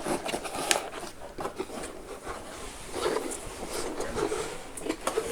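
Paper and packaging being handled: irregular rustling with light clicks and knocks.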